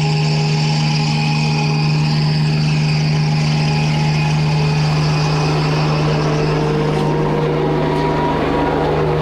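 An engine running steadily with a loud low hum, its pitch rising slightly about halfway through.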